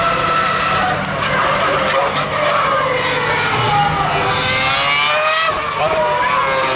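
Formula One cars' 2.4-litre V8 engines at high revs, several at once, their pitch climbing and falling through gear changes and throttle lifts.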